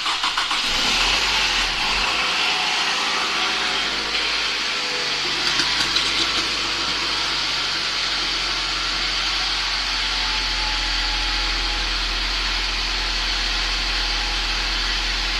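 Toyota 2AZ-FSE 2.4-litre four-cylinder engine on its first start after a full rebuild. It fires right away and settles into a steady idle.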